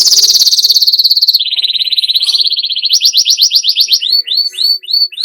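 Domestic canary singing a fast, rolling song: quick high trills that jump in pitch, dropping to a lower trill about a second and a half in, then a run of separate downward-sweeping chirps near the end.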